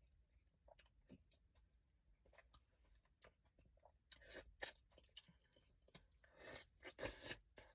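A person chewing and eating crawfish boil, with soft wet mouth clicks and a few louder crunchy bursts about halfway through and again near the end.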